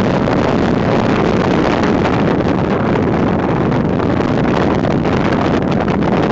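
Strong wind blowing across the microphone: a loud, steady rush with a deep rumble and no pitched tone.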